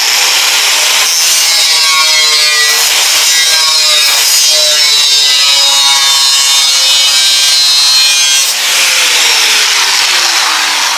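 Power tool cutting through steel: loud and continuous, its pitch wavering as the cut loads it. About eight and a half seconds in the sound changes, and a falling tone follows as the tool slows.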